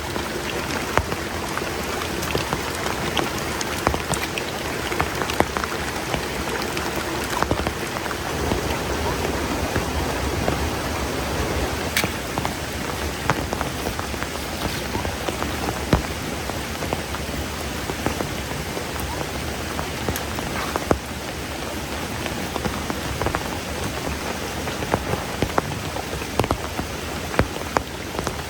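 Steady rain falling, with many individual drops striking a nearby surface as sharp, irregular ticks over the constant hiss.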